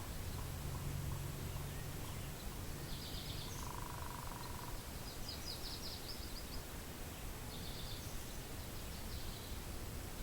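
Steady wind with a low rumble, over which a small bird sings short, high trilled phrases about four times, with one lower buzzy note about four seconds in.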